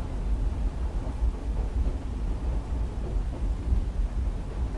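Steady deep rumble of a moving train, with rain on the window.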